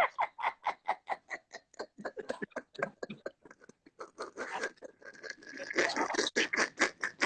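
Laughing hard in rapid ha-ha pulses, about four or five a second, fading around the middle and building up again near the end.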